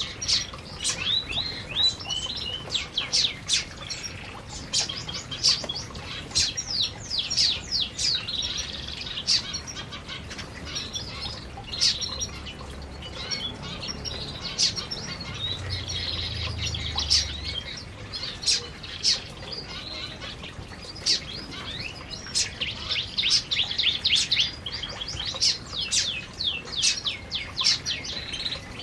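Several canaries chirping continuously, many short, quick calls overlapping one another.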